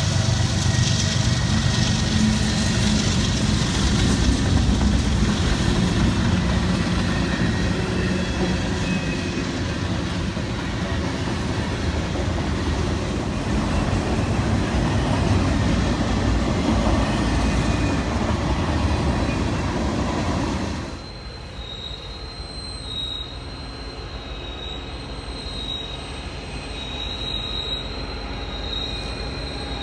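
Freight train rolling past, its cars rumbling with wheels squealing on the rails. About two-thirds of the way in the sound drops suddenly and carries on quieter, with a thin high squeal.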